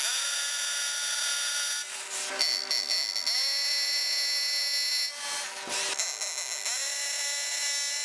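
Hammer drill boring holes for wall plugs, its motor whining in three runs with short pauses between them, spinning up in pitch at the start of each run.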